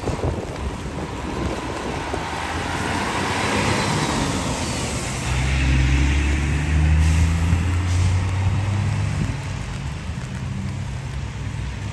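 Street traffic on wet roads: tyres hiss past, swelling and fading a few seconds in. Then a heavy vehicle's engine hums low and loud from about five seconds to ten seconds.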